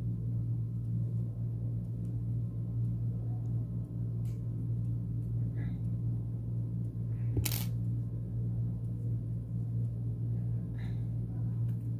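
A steady low hum, with one sharp click about seven and a half seconds in and a couple of faint small handling sounds.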